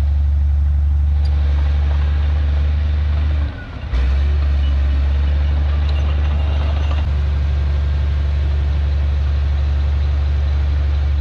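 Heavy diesel engine of earthmoving machinery running steadily with a strong low drone, dipping briefly in level about three and a half seconds in.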